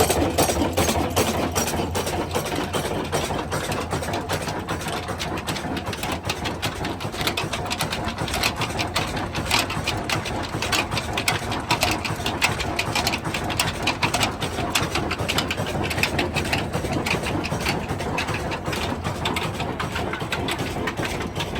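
Diesel engine running steadily with a rapid, even clatter.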